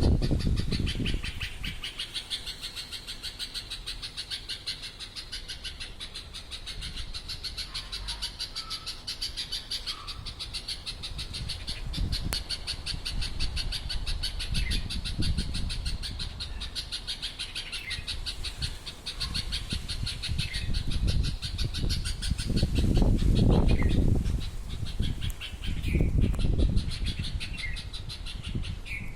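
A loud, continuous, high rapid-pulsing buzz that the uploader takes for an unknown bird's call, with short downward-sliding chirps over it in the second half. Low rumbles come and go at times.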